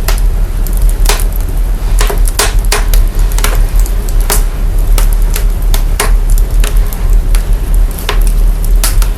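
Fire crackling, with irregular sharp pops a few times a second over a heavy, steady deep bass rumble. The fire's recording has been processed to bring out very low frequencies.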